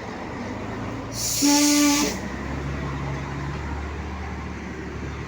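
A heavy truck's air horn blows once, for about a second: a steady single-pitched blast with a rush of air hiss. Under it, and after it, the truck's diesel engine runs with a low rumble.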